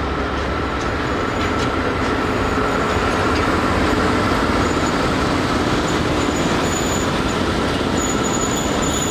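Freight train hauled by an ET22 electric locomotive rolling past with a long train of open coal wagons: a steady rumble of wheels on rail that grows a little louder as the wagons pass, with a thin steady whine over it for much of the time.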